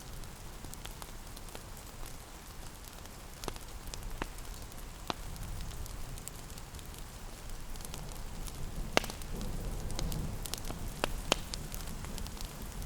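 Wood fire crackling in a fireplace, with scattered sharp pops that come more often and louder about nine seconds in, over a steady patter of rain.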